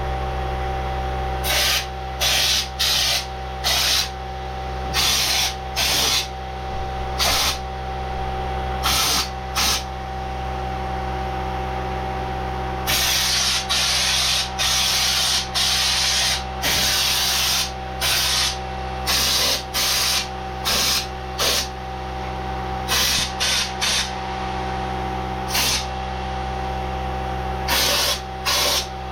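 Raptor bed-liner coating being sprayed from an air-fed spray gun in many short hissing blasts, with one longer blast of about four seconds midway. A steady hum with fixed tones runs underneath.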